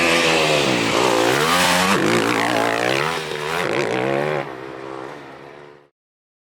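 Dakar rally truck engine revving, its pitch dropping and climbing again several times. About four and a half seconds in it falls away, then cuts off abruptly.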